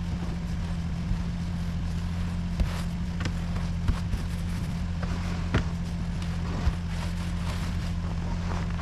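A vehicle engine running steadily with a low hum, with a few sharp clicks or knocks over it.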